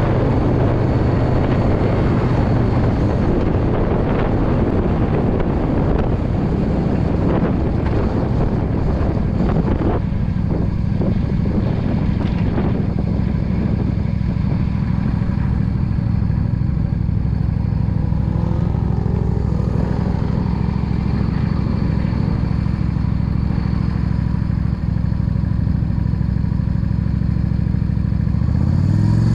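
2016 Yamaha V Star 650 cruiser's air-cooled V-twin engine running steadily at cruising speed, heard from the rider's seat. Wind on the microphone is heavy through roughly the first third and eases after that. Right at the end the engine pitch rises and then drops back.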